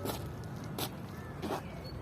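Three footsteps on hard ground, evenly spaced about 0.7 s apart, over a steady low background rumble.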